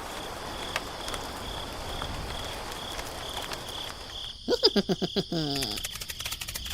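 Crickets or other insects chirping in a steady high pulsing trill. About halfway through, an animal gives a quick run of about six loud pitched calls, followed by rapid ticking.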